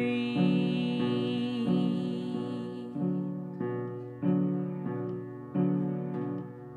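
Piano playing a steady pattern of chords, one about every two-thirds of a second, as the accompaniment to a slow folk song. A sung note with vibrato is held over the first three seconds, then the piano carries on alone.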